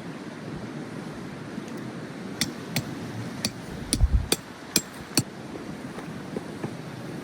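A series of about seven sharp knocks over roughly three seconds, irregularly spaced, with one heavier, deeper thump near the middle, over a steady low rumble of wind or outdoor noise.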